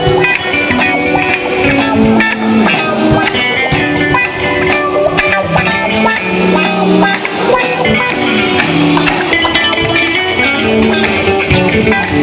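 Band jamming: guitar playing with a drum kit keeping a steady beat.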